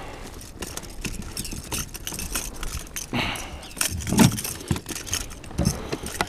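Irregular clicks, knocks and rattles of fishing gear and a just-caught small fish being handled against the kayak, with low wind rumble on the microphone; a couple of louder breathy sounds in the middle.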